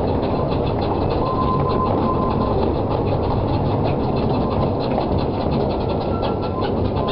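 15-inch-gauge passenger train running on its track: a steady rumble with a rapid, uneven clicking of wheels on the rails.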